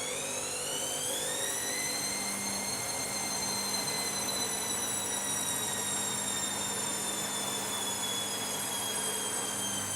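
Washing machine spinning up: the motor's whine rises in pitch over the first two seconds or so, then holds at spin speed and slowly drifts a little lower.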